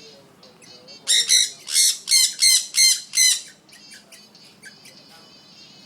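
African grey parrot squawking: a run of about seven loud, harsh calls in quick succession, with softer chirps and whistles before and after.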